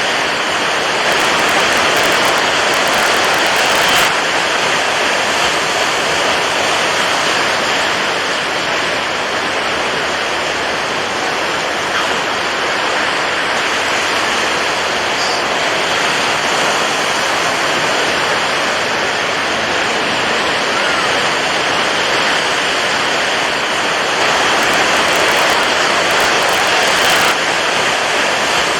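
Steady rushing of water waves, an even wash of noise that swells a little twice, once early and once near the end.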